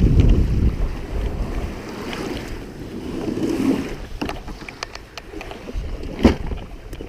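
Strong wind buffeting the microphone as a kayak is paddled through choppy water, with paddle splashes and a sharp knock about six seconds in.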